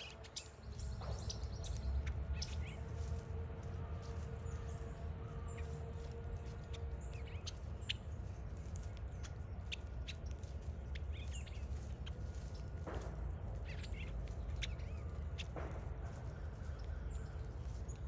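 Small birds chirping at a bird feeder: short, scattered high chirps, over a steady low background rumble.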